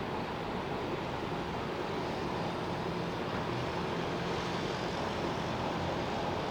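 Jet airliner engines running: a steady rush of noise with a faint steady whine in it.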